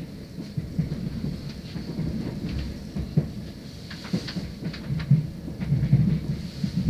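Train running along the line, heard from inside the carriage: a steady low rumble with irregular clicks and knocks from the wheels on the track.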